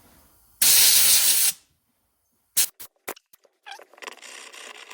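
A loud hiss of pressurised spray lasting about a second as a greasy hydraulic dipstick is blasted clean with brake cleaner and compressed air. A few sharp clicks follow, then a fainter, rougher hissing noise.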